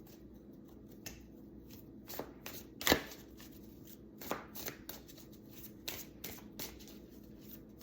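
Tarot deck being shuffled by hand: scattered soft card slides and taps, with one sharper slap about three seconds in.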